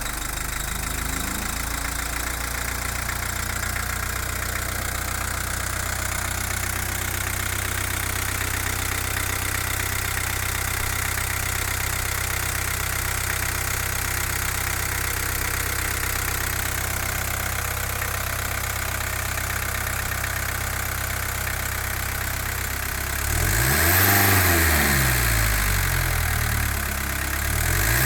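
Volkswagen 1.9 TD AAZ four-cylinder turbodiesel engine idling steadily just after starting, then revved up and let back down about 23 seconds in, with another rev beginning near the end.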